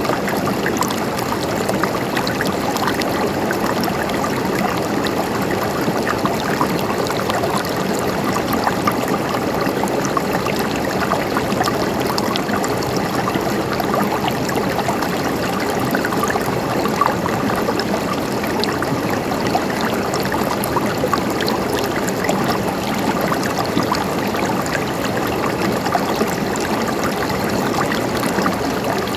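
Mountain stream running over stones, a steady babbling trickle with small splashes throughout.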